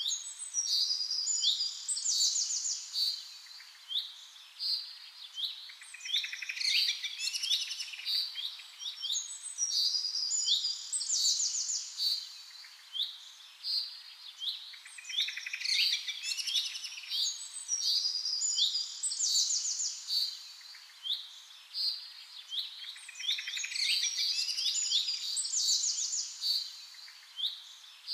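Several small birds chirping and calling, with short high notes that sweep downward and fast trills. The same stretch of birdsong repeats about every nine seconds, as in a looped recording.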